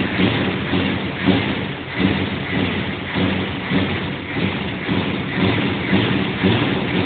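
1969 Ford Falcon engine running at idle, a steady low note whose loudness swells and dips unevenly.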